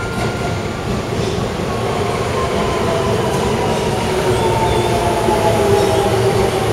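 Electric commuter train pulling into a station platform and slowing. Wheels rumble on the rails under a motor whine that falls steadily in pitch as it brakes.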